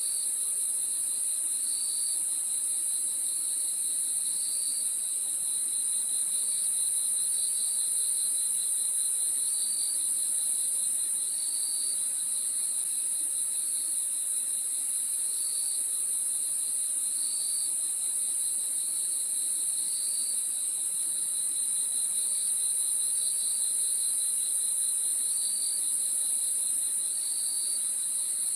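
Crickets chirping at night in a steady, unbroken chorus. A high continuous trill sits under a rapid pulsing chirp, with short chirps from another cricket repeating every second or two.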